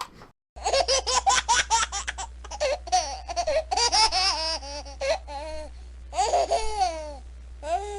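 A baby giggling and laughing in quick, high-pitched bursts, with short breaks between fits.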